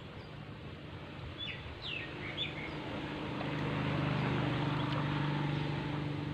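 A few short bird chirps about two seconds in, over a steady outdoor hiss. From about three seconds in, a low steady drone swells and becomes the loudest sound.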